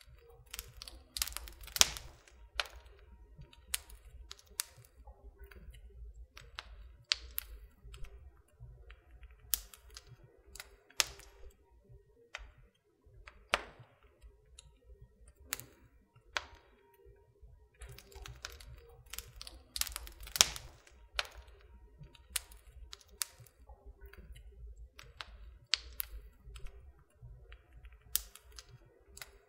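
Wood fire crackling in a fireplace: irregular sharp snaps and pops, a few much louder than the rest, over a low steady rumble of the flames.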